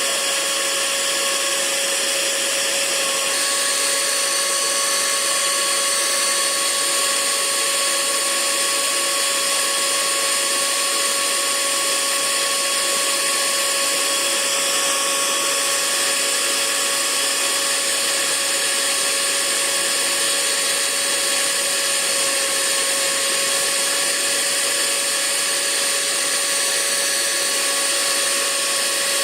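Hair dryer running steadily: an even rushing hiss of blown air with a constant motor hum and a high whine.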